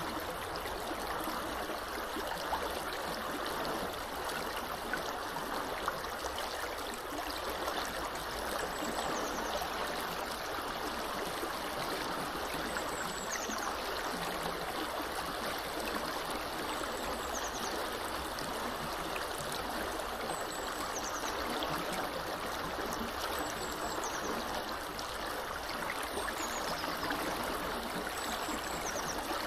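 Small river flowing steadily, a continuous even rush of water. A bird gives short, high chirps every few seconds from about a third of the way in.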